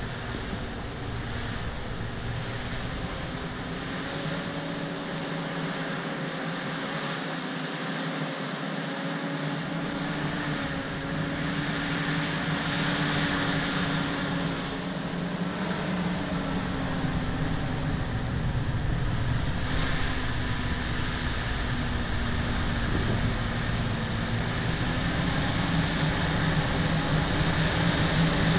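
Bulldozer's diesel engine running under load while it pushes topsoil, its pitch wavering a little, with the clatter of its tracks; it grows louder toward the end.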